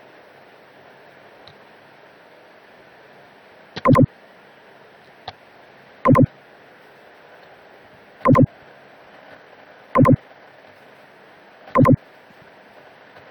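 Five short, loud pitched tones about two seconds apart, over a low steady hiss.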